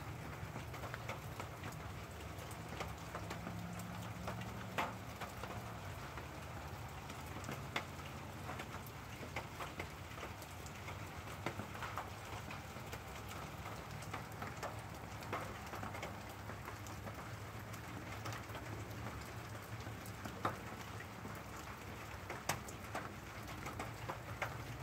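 Steady rain falling during a thunderstorm, with a louder drop striking close by every few seconds and a low steady rumble underneath.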